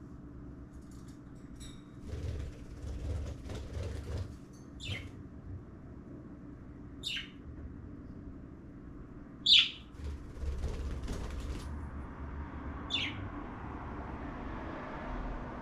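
Pet cockatiels: four short, high chirps that sweep downward, spaced a couple of seconds apart, the third the loudest. Two stretches of wing flapping and rustling, the first starting about two seconds in and the second about ten seconds in.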